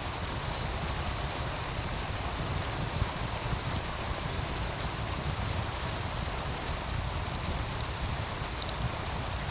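A wood fire crackling, with sharp pops scattered irregularly, over the steady rush of a meltwater stream.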